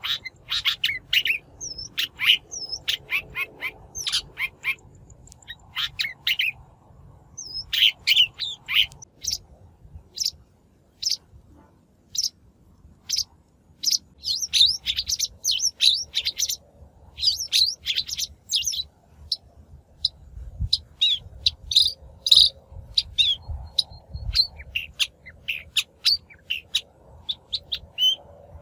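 Shrike song from a lure recording: a rapid run of short, scratchy chirps and calls with a brief lull about ten seconds in.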